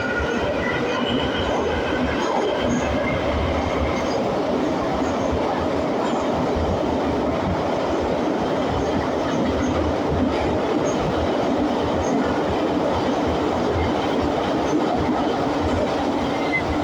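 81-502 metro train running at speed between stations, heard from inside the car: a steady rumble of wheels on rails. Faint high whining tones sit over it in the first few seconds.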